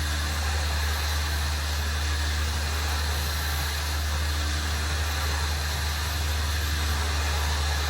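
A vehicle engine idling steadily, a low, even hum with no change in speed.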